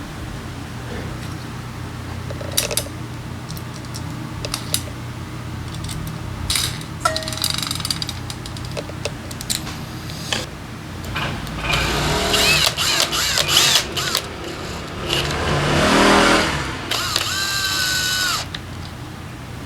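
Tools and metal parts being handled during scooter repair work: scattered clicks and knocks, clattering for a few seconds, then a brief whir about three-quarters of the way through, over a steady low hum.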